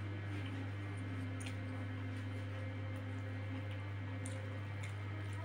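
Mouth and hand sounds of a person eating rice and fried egg with bare fingers: quiet wet chewing and a few faint scattered clicks. A steady low electrical hum runs under it.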